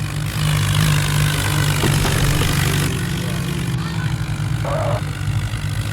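A vehicle engine running steadily under load, with a rushing noise over it for the first few seconds.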